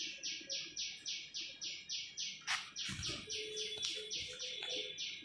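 A steady, rapid series of high chirps, about three or four a second, with a knock about two and a half seconds in.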